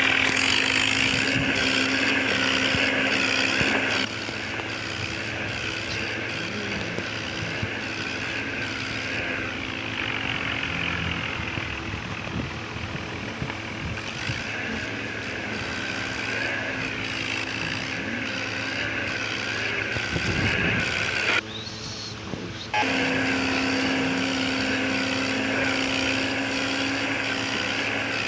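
Tractor engines running hard at high revs, as in a tractor tug-of-war pull, with a steady drone that wavers in pitch. The sound changes abruptly about four seconds in and again briefly near the end.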